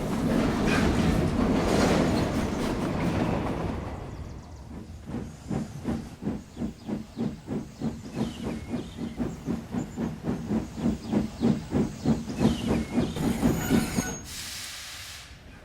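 Steam locomotive pulling away: a long hiss of escaping steam, then steady chuffing at about two and a half beats a second that grows louder, ending with a short burst of hiss.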